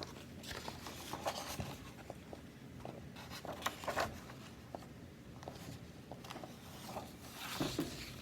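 Soft rustling with scattered light clicks and scrapes: a paper picture-book page being handled.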